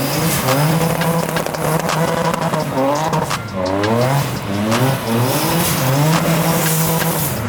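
Car drifting: the engine revs rise and fall repeatedly while the tyres squeal. The sound cuts off abruptly at the very end.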